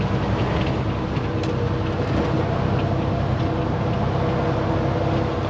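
Semi truck's diesel engine and road noise heard from inside the cab while driving, a steady drone with no change in pitch.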